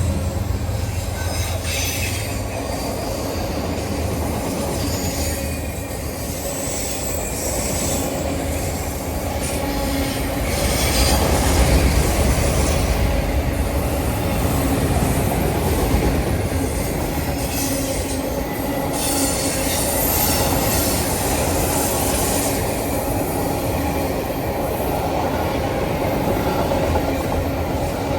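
A train rolling past: steady rumble and rattle of steel wheels and cars on the rails, with high wheel squeal coming and going.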